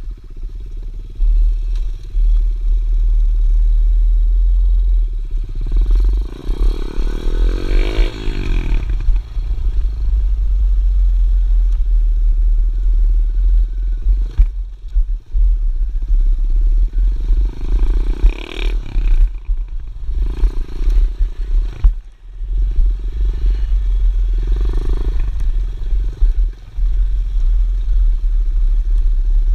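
Pit bike's small engine running under way, revving up several times, the biggest rise about six to nine seconds in, over heavy wind rumble on the microphone.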